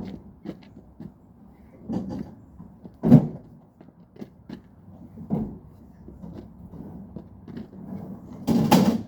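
Clunks and knocks from a refrigerator being moved on a dolly: separate knocks about two, three and five seconds in, the one at three seconds the loudest, then a longer clatter near the end.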